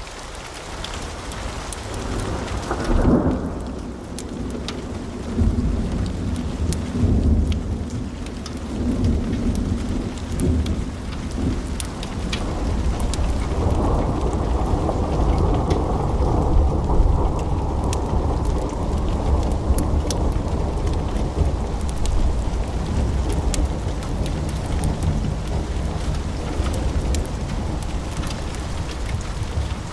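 Crackling fire, with sharp pops scattered through. About three seconds in a deep rumble swells up and carries on underneath.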